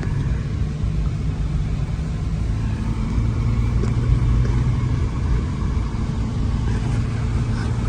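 A car driving: steady engine and road rumble.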